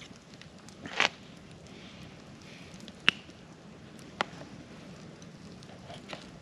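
Campfire crackling: a faint steady hiss with four sharp, separate pops spread over a few seconds.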